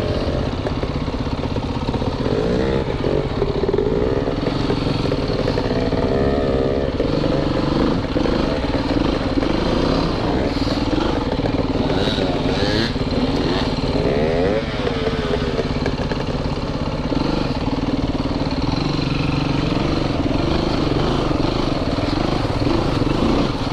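Four-stroke single-cylinder dirt bike engine running at low revs, the revs rising and falling several times as the throttle is worked.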